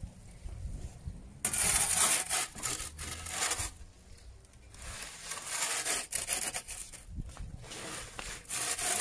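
Metal pizza peel scraping and sliding across the hot stone floor of a wood-fired pizza oven as the pizza is turned, in several rasping strokes, the longest about a second and a half in.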